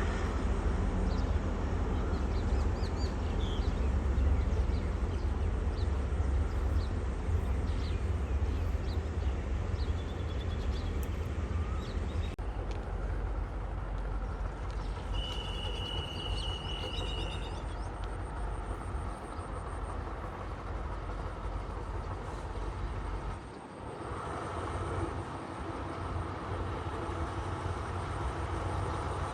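State Railway of Thailand diesel train running by with a steady low engine rumble. A short, steady high tone sounds about halfway through.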